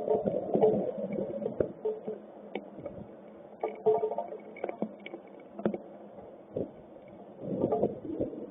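Hailstones striking hard surfaces in irregular sharp clicks and taps, over a low rumbling noise, heard through a security camera's thin-sounding microphone.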